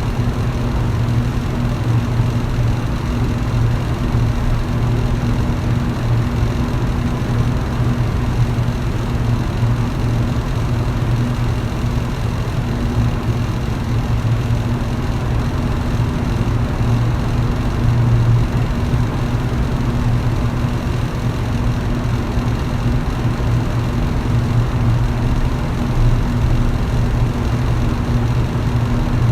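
Electric fan running steadily: a low, even motor hum with the rush of moving air.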